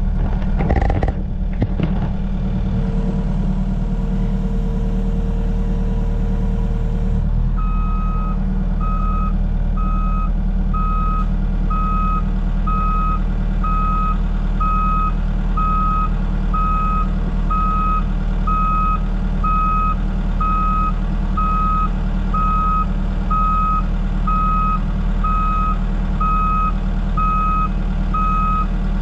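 Heavy equipment machine's engine running steadily; a steady warning tone sounds for a few seconds, and then, about eight seconds in, its backup alarm starts beeping about once a second as the machine reverses.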